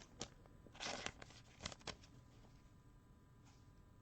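Faint rustling and light clicks of trading cards and plastic card sleeves being handled, a few brief handling noises in the first two seconds, then near silence.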